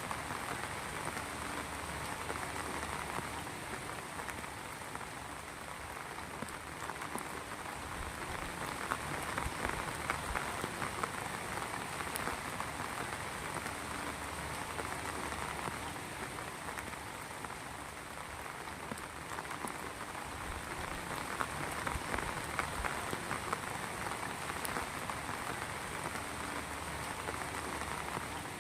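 Rain falling steadily, a dense, even patter of drops hitting surfaces.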